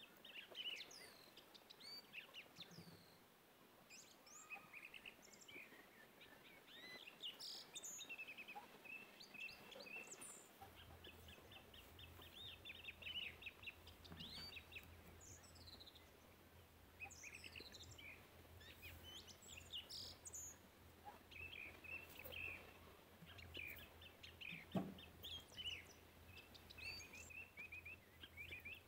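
Faint birdsong: several small birds chirping, with short rapid trills and quick rising and falling calls repeating throughout.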